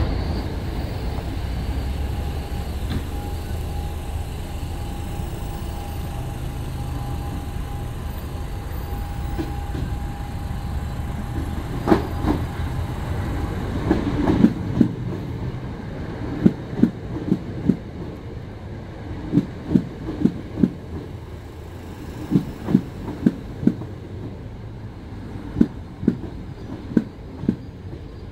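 Southeastern electric multiple-unit trains: a steady rumble with a thin whine through the first half, then a train rolling slowly alongside. Its wheels click sharply and irregularly, often in pairs, over rail joints as the sound fades.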